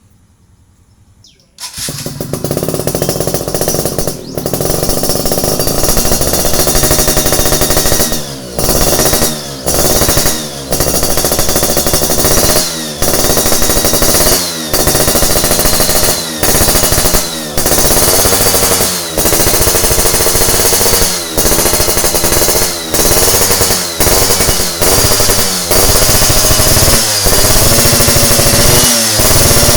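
Yamaha Fiz R (F1ZR) two-stroke single-cylinder engine running loud through an aftermarket racing expansion-chamber exhaust. It comes in suddenly about a second and a half in, runs steadily for a few seconds, then is revved over and over in short throttle blips, rising and dropping back about once a second.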